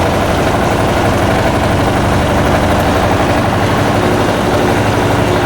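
Electrolux LF90 washing machine running with a steady motor hum, with no change in pitch or loudness.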